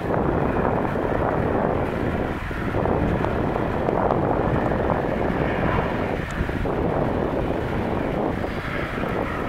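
Steady roar of airliner engines at an airport, with wind buffeting the microphone.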